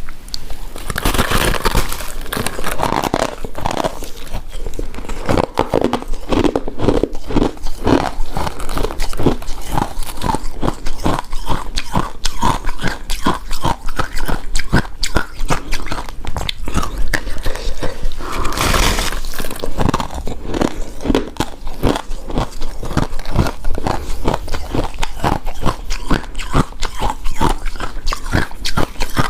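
Close-up eating of shaved snow ice: continuous crunching, biting and chewing of icy mouthfuls, with a dense run of small crackles and louder crunches about a second in and again just before 20 seconds.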